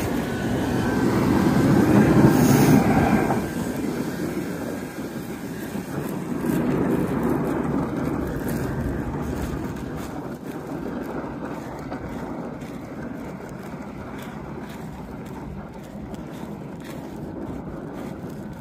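Blizzard wind buffeting the microphone, a steady rumbling noise that is strongest in the first few seconds and then eases off.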